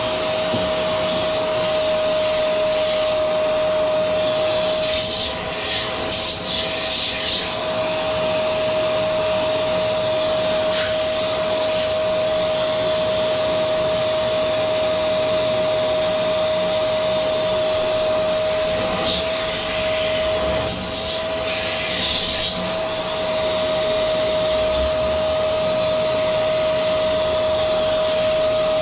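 Vacuum cleaner motor running steadily with a constant high whine over a rushing hiss. The rush of air turns louder and hissier twice, about five seconds in and again about twenty seconds in.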